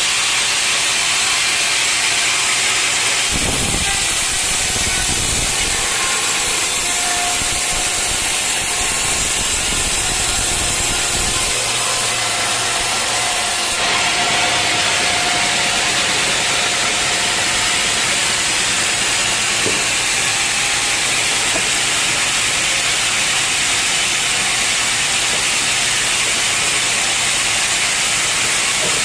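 Sawmill saw cutting through a dense old teak log, a loud steady hiss, with a deeper rumble joining in for several seconds near the start.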